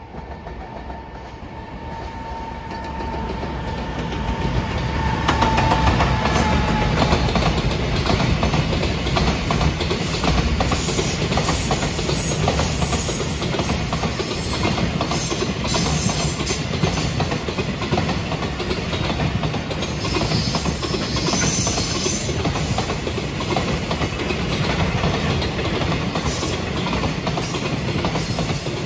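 Freight train passing close by. It grows louder over the first six seconds as the locomotive approaches, with a steady high tone, then a long string of container flat wagons rolls past with a continuous clickety-clack of wheels over rail joints.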